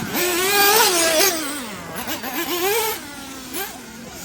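Small nitro engine of a 1/8-scale off-road RC buggy revving, a high whine that rises and falls over and over with the throttle, loudest in the first second and a half.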